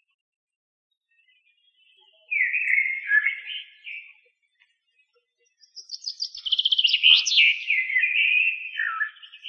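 Bird calls: a burst of high chirps, then after a short pause a longer run of chirping with a fast trill in the middle.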